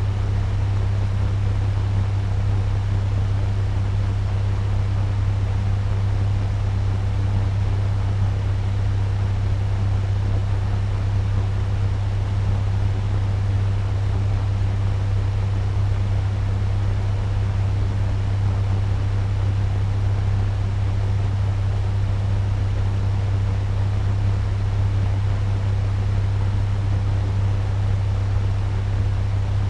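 Turbo fan running steadily at medium speed: an even rush of air over a strong low hum.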